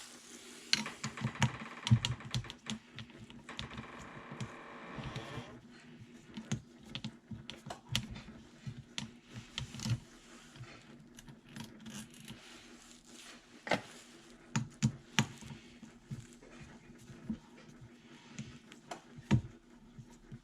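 Metal pressure washer pump parts and hand tools clicking, clinking and knocking during disassembly, with a short scraping stretch in the first few seconds and irregular taps after. A faint steady hum runs underneath.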